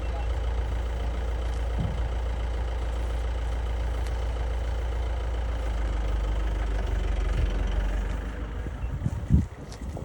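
Vehicle engine idling with a steady low hum that fades away near the end, and a single thump about nine seconds in.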